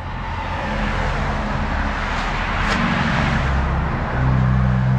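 Road traffic passing close by: cars and trucks going past with tyre noise and low engine hum. The hum grows louder about four seconds in as a heavier vehicle goes by.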